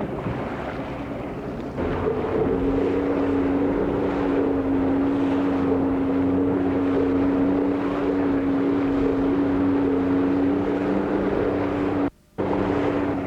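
A motorboat engine running at a steady pitch over wind and water noise. It comes in and gets louder about two seconds in. Near the end the sound cuts out completely for a moment.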